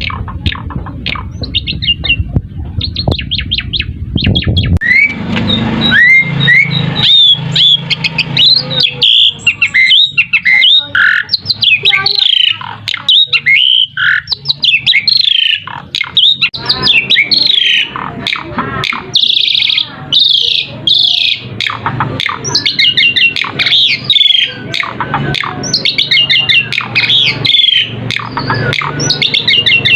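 Asian pied starling (jalak suren) singing a loud, varied song of quick whistles, rising whistled glides, harsh squawks and rapid chattering note series, with a low rumble under the first few seconds.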